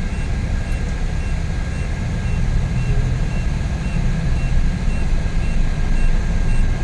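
Cabin sound of a Suzuki Every DA64V van driving on its freshly rebuilt K6A three-cylinder engine: a steady engine and road rumble. A faint short high beep repeats about twice a second.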